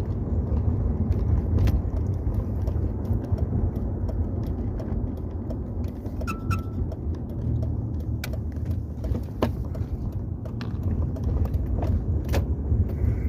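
2004 Toyota 4Runner running, a steady low rumble with scattered sharp clicks and a brief high tone about six seconds in.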